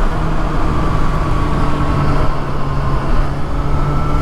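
Kawasaki ZX-6R sport bike's inline-four engine running at steady revs, its even hum over a low rumbling haze.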